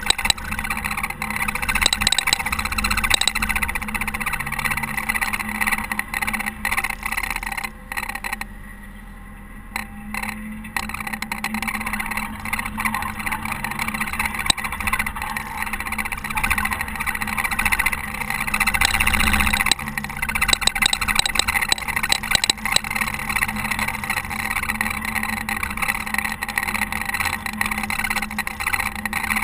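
Caterpillar TH330B telehandler's diesel engine running steadily while it plows snow, with a short drop in level about eight seconds in.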